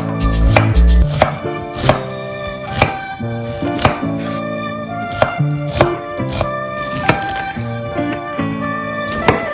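Knife chopping on a cutting board, sharp strikes roughly once a second, over background music.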